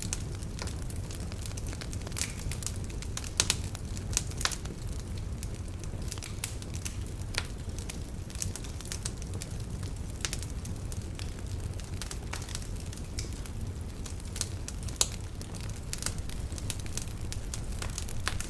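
Wood fire burning in a fireplace: a steady low rumble of flames with irregular sharp crackles and pops from the logs, the loudest pops a little after three seconds, around four and a half seconds and near fifteen seconds.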